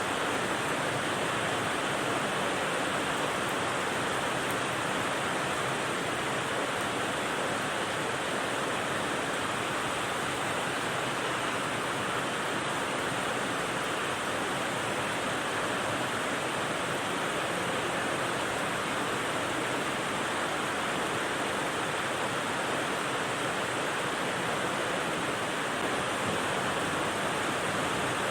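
Steady rain noise, an even hiss that does not change, with no single drops or other sounds standing out.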